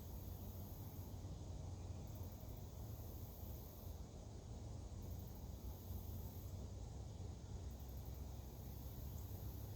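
Faint outdoor ambience of insects trilling, a very high-pitched buzzing trill that comes in regular bursts of about a second and a half, four times, over a low steady rumble.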